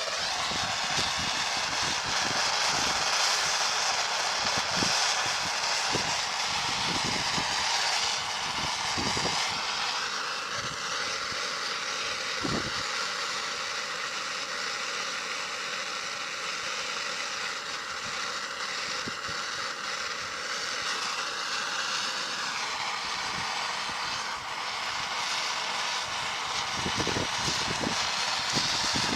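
A machine running steadily: a continuous drone with several steady tones over a hiss. Scattered light knocks sound under it.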